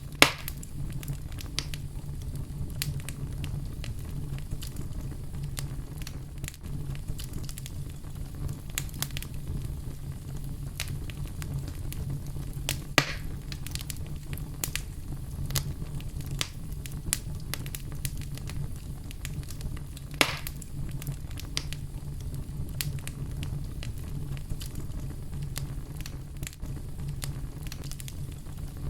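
Fire burning in a fireplace, crackling with frequent small pops over a steady low rumble. A few louder sharp pops stand out: one just after the start, one about halfway, and one about two-thirds of the way in.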